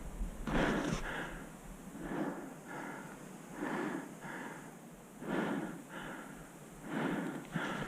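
A paintball player breathing hard close to the microphone, in and out in a steady rhythm about every second and a half.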